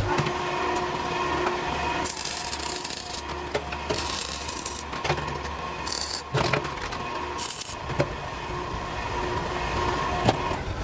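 A hand tool scraping or filing on metal in several separate strokes, with a few sharp taps, over a steady faint hum.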